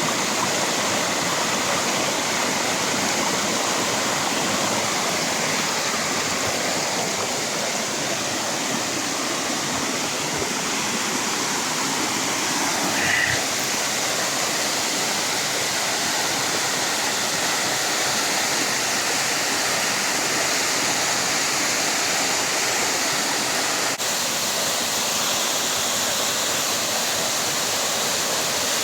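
Waterfall pouring steadily, a constant rushing of falling water, with a brief faint high chirp about halfway through.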